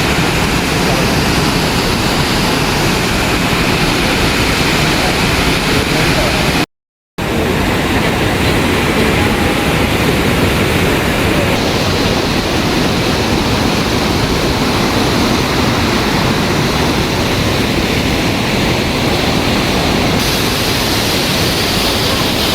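Waterfall pouring, a loud, steady rush of falling water. It breaks off into silence for an instant about seven seconds in, then carries on.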